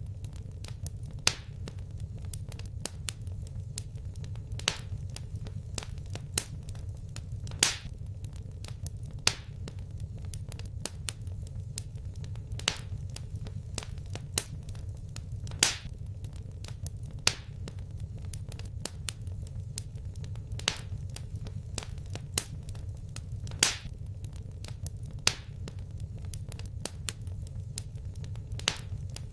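Wood fire crackling in a fireplace: a steady low rumble of the flames with sharp pops and snaps every second or two, a handful of them much louder than the rest.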